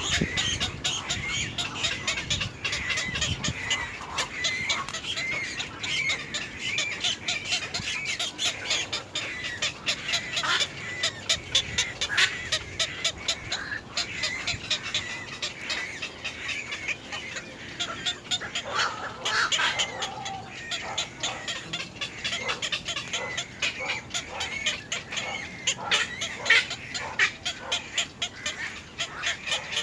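Birds calling continuously in rapid, repeated short chirps and clucking notes, with one louder call about two-thirds of the way through.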